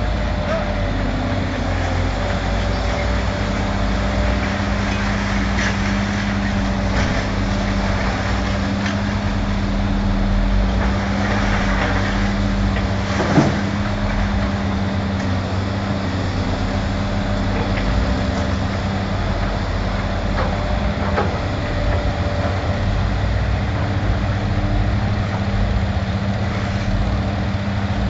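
Heavy diesel engine running steadily as a CAT excavator drives off a low-loader trailer, with a sharp metallic knock about halfway through.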